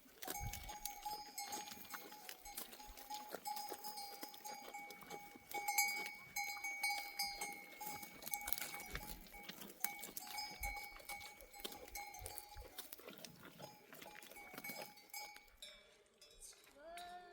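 Bells on a flock of sheep clanking and ringing unevenly as the animals move and graze. Near the end a sheep bleats once.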